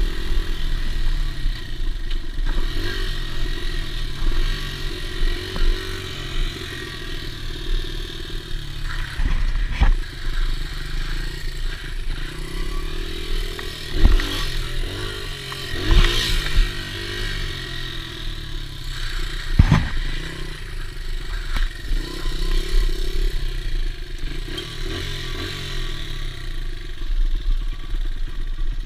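Dirt bike engine running and revving, its pitch rising and falling as it is ridden, with several sharp knocks along the way.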